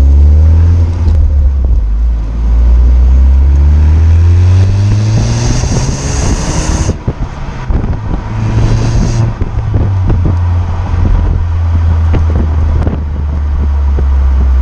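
Ford Focus ST's stock exhaust, with the turbocharged 2.0-litre four-cylinder accelerating and rising in pitch twice. Heavy wind buffeting on the tailpipe-mounted camera's microphone.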